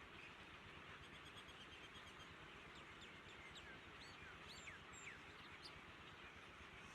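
Faint small-bird chirps over a steady background hiss: a quick run of short, even notes about a second in, then a scatter of short sweeping chirps.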